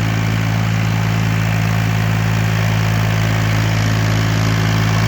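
Ox 25 tractor's engine running steadily at a constant speed, a deep, even hum with no change in pitch.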